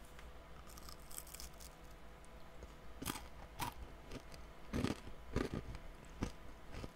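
Faint chewing of a crunchy toasted seaweed and sesame cracker, with several soft crunches spread irregularly, most of them between about three and six and a half seconds in.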